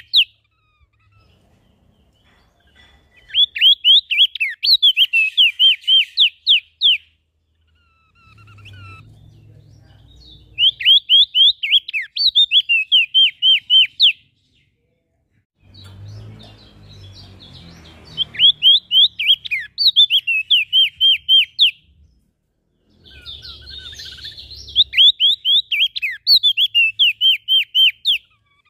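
A small songbird sings a fast series of sharp, downward-slurred chirps in phrases of about four seconds, repeated four times with short pauses between them. A faint low rumble sits in the gaps.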